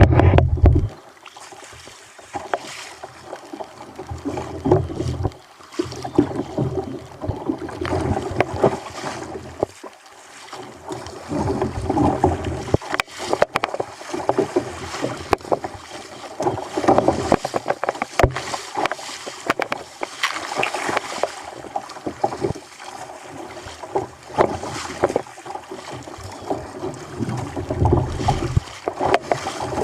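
Choppy sea water splashing and slapping against a fishing kayak's hull in uneven surges.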